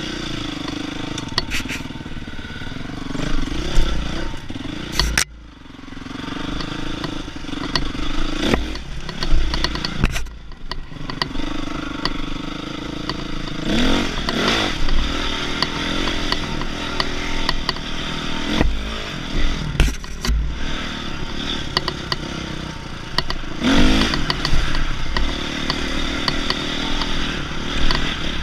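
Dirt bike engine being ridden, revving up and falling back over and over, with clattering and scraping knocks from the bike over rough ground. The engine drops off briefly about five and again about ten seconds in.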